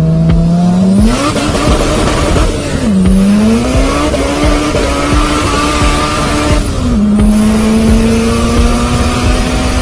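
Honda VTEC engine at full throttle, heard from inside the car. About a second in, the note jumps up and turns harsher as VTEC engages. The revs then climb through two upshifts, about three and seven seconds in, with the note dropping at each shift before it rises again.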